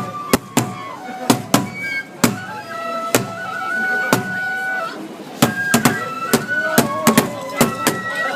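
Japanese festival procession music: a transverse bamboo flute plays a melody of held, stepping notes, over sharp, irregularly spaced percussion strikes.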